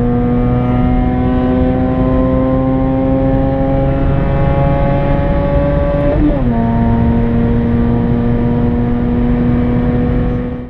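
Mazda RX-8's twin-rotor Wankel rotary engine accelerating, heard from inside the cabin: the engine note climbs slowly through one gear, drops quickly at an upshift about six seconds in, then climbs again in the next gear.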